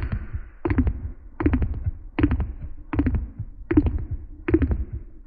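A beatboxer's low lip roll, the lips flapping against each other, heard slowed down as a series of low fluttering bursts about every three-quarters of a second, each with a pitch that falls.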